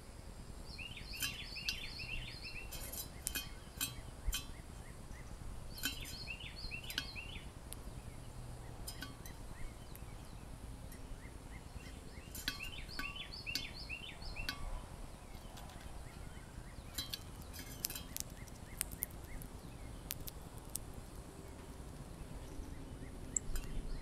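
Three short phrases of quick repeated bird chirps, each lasting a second or two, with scattered sharp clicks and taps from a bird on a plastic seed-feeder tray.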